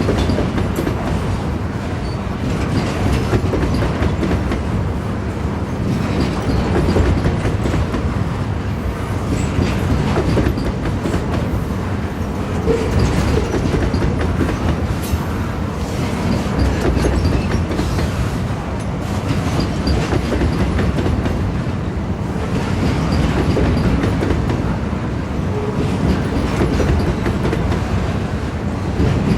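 Freight train of wood-pulp wagons rolling by, its wheels clacking steadily over the rail joints amid continuous rumbling.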